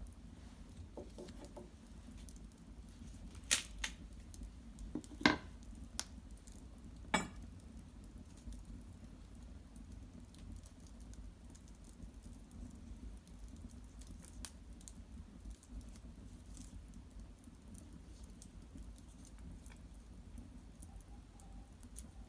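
Cedar branches and bark burning in an irori hearth: a faint crackle with three sharp pops in the first half.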